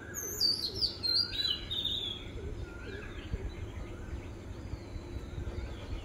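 Birds chirping: a run of quick, high falling chirps through the first two seconds or so, then fainter calls, over a low rumble.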